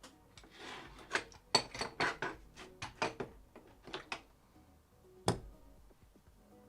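Small hard objects clicking and clinking as they are handled on a workbench, in a quick irregular run, with one louder knock about five seconds in. Quiet background music underneath.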